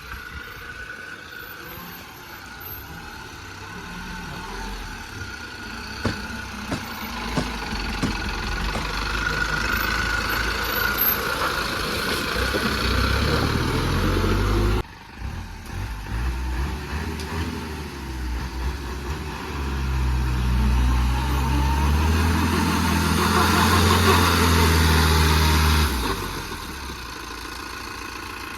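JCB mini excavator's diesel engine running steadily, rising to louder, heavier stretches twice as it works under hydraulic load while loading soil. It drops off abruptly about halfway through, and there are a few short knocks around six to seven seconds in.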